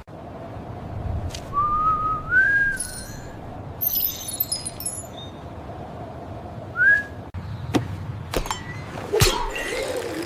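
A whistle rising in two steps about a second and a half in, and a short upward whistle near seven seconds, over a steady low hum, with a few clicks and a high shimmer in between.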